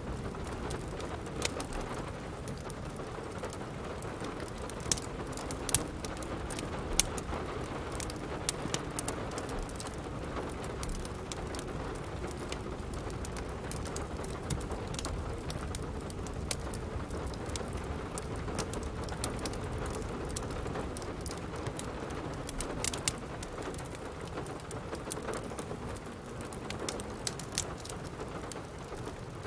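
Steady rain falling, with scattered sharp pops and crackles from a wood fire in a fireplace. The loudest pops come a few seconds in and again near the middle.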